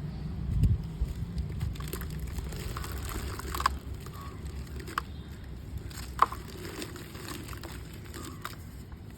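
Lumps of dried red mud being crumbled: scattered gritty crackles and crunches, with about three sharper snaps, over a steady low hum.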